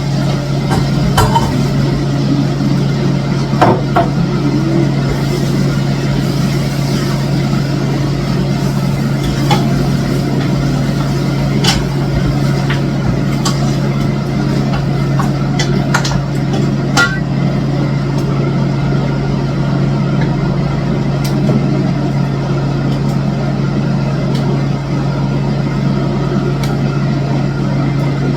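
A steady low mechanical hum, like a motor running, with a few short light clicks and knocks scattered through it.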